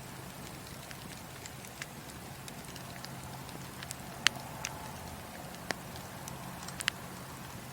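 Wood fire burning in a fireplace, crackling steadily under a low hum, with sharp pops here and there, the loudest a little over four seconds in and a few more near the end.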